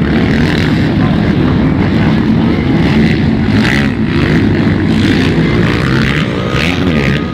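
Motocross motorcycle engines revving, loud and continuous, their pitch rising and falling as the bikes work the track.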